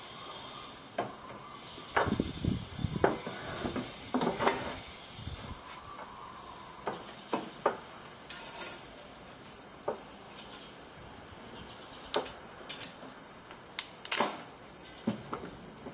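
Metal parts and tools clinking and knocking now and then as they are handled, with a steady high chirring of insects underneath.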